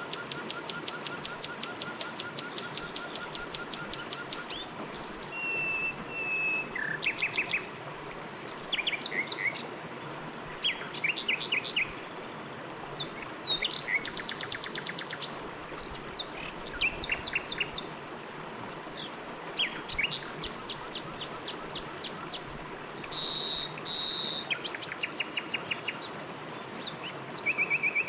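Several songbirds calling one after another in quick trills and chirps over a steady rush of flowing river water. A rapid run of repeated notes in the first few seconds.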